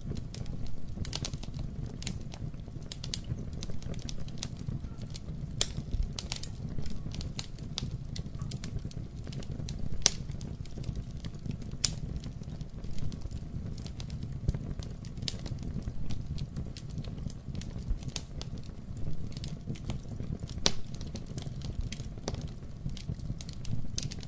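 Campfire crackling: irregular sharp snaps and pops, a few louder than the rest, over a steady low rumble.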